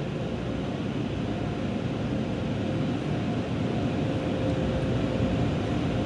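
Automatic car wash air dryers blowing on the car, heard from inside the cabin: a steady, loud rush of air that slowly grows louder.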